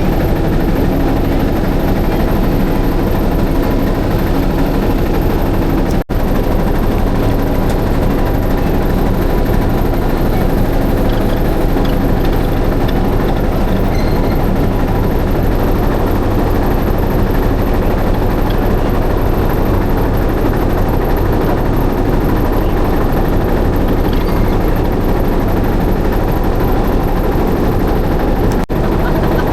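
Motorboat engine running steadily at a constant pitch. The sound cuts out for an instant twice, about six seconds in and near the end.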